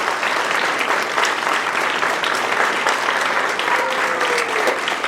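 Theater audience applauding steadily, with a few faint voices calling out over the clapping near the end.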